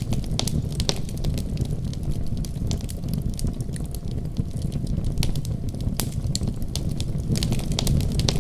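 Wood fire burning with a steady low rumble of flames and frequent sharp, irregular crackles and pops of the burning wood.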